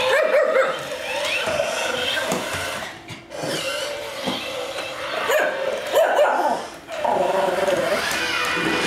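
A Shih Tzu barking, yipping and whining in a quick, irregular string of short calls, with brief breaks about three seconds in and again near seven seconds.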